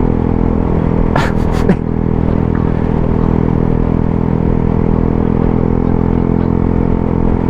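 Suzuki GSX-S 125's single-cylinder engine with a Mivv GP Pro aftermarket exhaust running at a steady cruising pace. A few quick sharp clicks sound about a second in.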